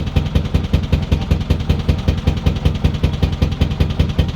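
Narrowboat's four-cylinder diesel engine running under way with a steady, even pulsing beat. It is running on two cylinders, which a friend who knows diesels has diagnosed, and it is not running as it should.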